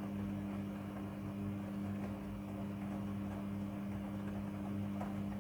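Midea front-loading washing machine running with a steady electric hum and the rush of its working parts, which stops suddenly at the very end.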